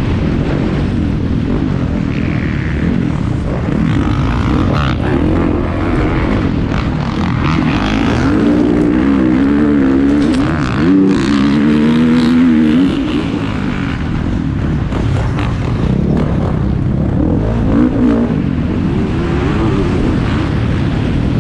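Motocross motorcycle engines racing, revving up and down through the gears. The engine note is loudest and swings up and down in pitch about ten seconds in, as a bike passes close.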